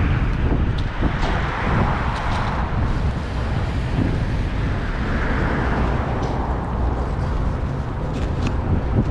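Strong wind buffeting the camera's microphone: a loud, constant low rumble that flutters, with gusts swelling and easing twice.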